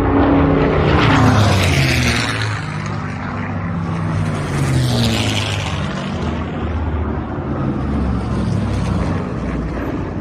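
Propeller aircraft piston engines droning as they fly past, their pitch falling as they go by.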